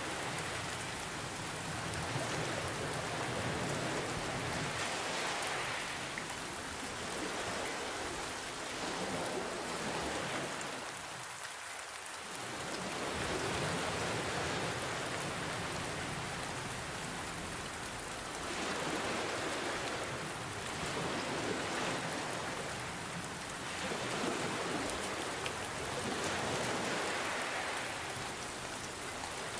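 Steady rain with gentle ocean waves, the sound swelling and easing every few seconds.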